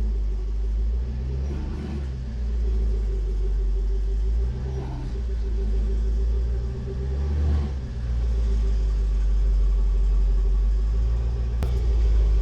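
Car engine running at low speed, a steady deep rumble with a faint hum above it that swells and eases a little.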